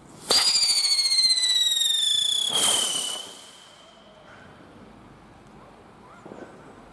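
A whistling firework ignites suddenly and gives a shrill, high whistle that slowly drops in pitch for about two and a half seconds, ending in a short burst of hiss before the whistle fades away.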